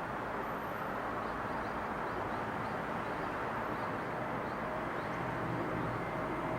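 Steady outdoor ambience of a residential neighbourhood by day: an even, constant rush of wind and distant traffic. Faint, short, high chirps of a small bird repeat through the middle.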